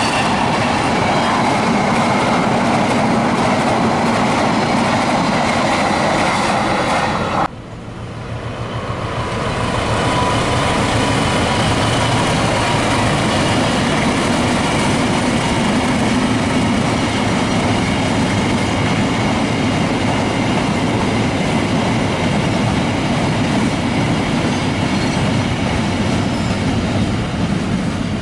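A train passing at speed close by: loud, steady rushing and rumbling of wheels on rail, with some clickety-clack. The sound cuts off abruptly about a third of the way in, then builds up again and carries on steadily.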